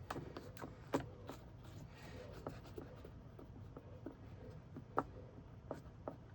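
Faint scattered small clicks and light rubbing from handling small plastic model-kit parts and a paintbrush, with two sharper taps, about a second in and about five seconds in.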